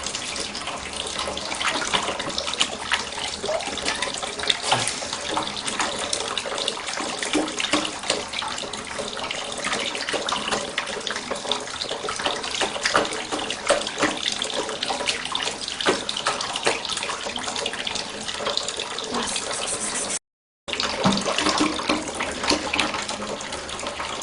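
Tap water running steadily into a kitchen sink, with small splashes and clinks. It drops out for a moment about twenty seconds in.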